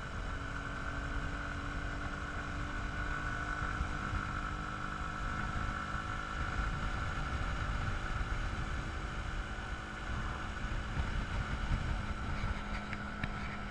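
Dirt bike engine running at a fairly steady speed, with heavy wind rumble on the action-camera microphone.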